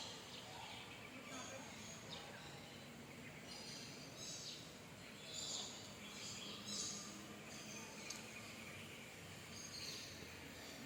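Birds chirping with short high-pitched calls that come several times, most clearly in the middle of the stretch, over a steady outdoor background hiss.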